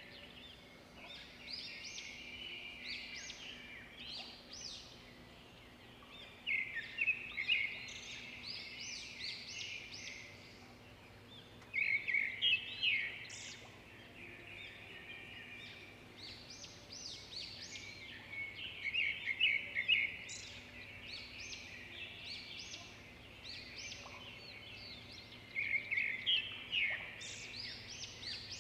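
Birds chirping: runs of quick, high chirps that swell into louder bursts about every six or seven seconds, with softer chirping between.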